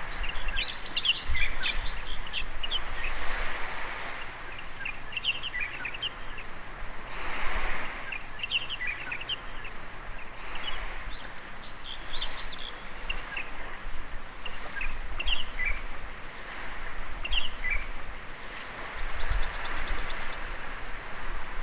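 Small birds chirping and calling in short, quick phrases throughout, with a rapid run of high descending notes near the end. Under them runs a steady hiss of surf washing on the shore that swells now and then.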